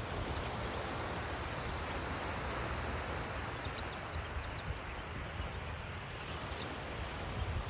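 Ocean surf washing in a steady hiss that swells a little early and then eases, with a low rumble of wind on the microphone.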